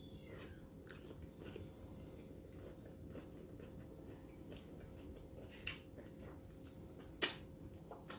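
Chewing and crunching a mouthful of hard-shell taco, with scattered small mouth clicks and one sharper crunch about seven seconds in.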